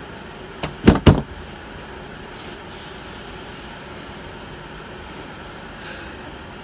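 Two loud knocks in quick succession about a second in, as an old front air spring is worked loose from a bus's suspension, followed by a faint brief hiss.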